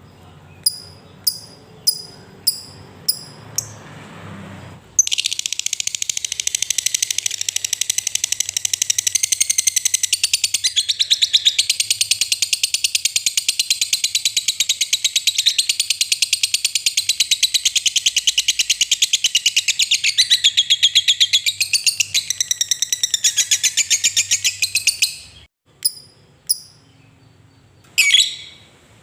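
Lovebird giving a run of single sharp chirps, then breaking into a long, rapid, unbroken chattering trill, the 'ngekek panjang', for about twenty seconds. The trill cuts off suddenly and is followed by a few more chirps.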